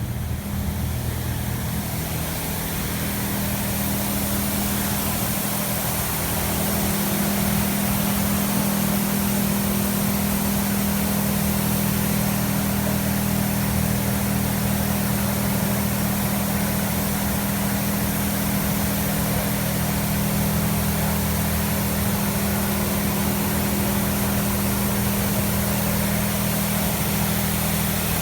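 Touchless automatic car wash high-pressure rinse: water jets spraying hard against the car, with a steady low hum underneath. The spray builds over the first several seconds, then holds steady.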